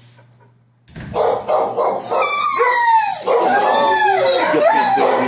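Dogs barking and howling, with long cries that slide up and down in pitch. The sound starts abruptly about a second in, after a moment of near silence.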